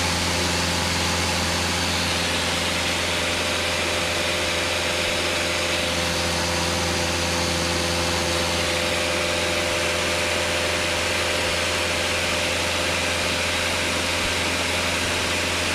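Single-engine Cessna's piston engine and propeller running steadily in cruise, heard inside the cabin as an even drone with a low hum, a constant mid-pitched tone and a hiss of airflow.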